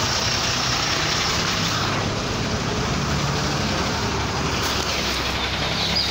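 Steady road-vehicle noise: a low engine rumble under a constant rush of noise, even and unbroken.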